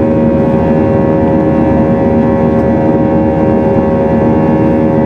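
Airbus A319 airliner's jet engines heard from inside the cabin during the climb after takeoff: a loud, steady drone with several steady hum tones running through it.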